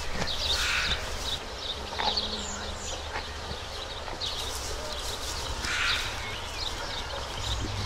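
Small birds chirping in short repeated calls over a low steady rumble.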